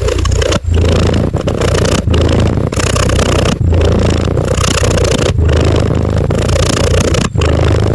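Domestic cat purring loudly close up: a continuous low rumble that breaks briefly with each breath, about every one to two seconds.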